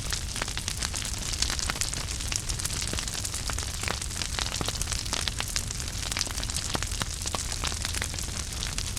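Wood fire burning in a fireplace: a steady low rumble and hiss of the flames with frequent irregular crackles and small pops from the burning wood.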